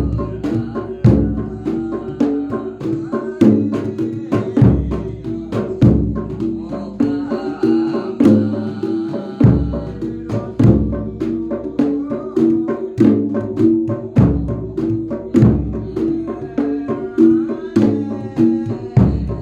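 Javanese percussion music led by a jedor bass drum beaten in deep booms every second or so, over quick sharp drum strokes and a repeating pattern of pitched notes in a steady rhythm.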